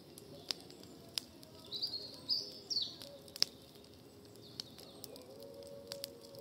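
Garden wood fire crackling, with scattered sharp pops, while a bird chirps a few short phrases about two to three seconds in.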